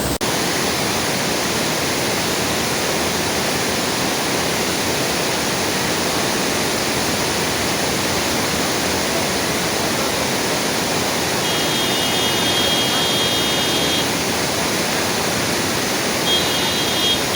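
Silver Cascade waterfall: a steady rush of falling water. Twice in the last six seconds a high, steady sound of several tones rides over it for a second or two.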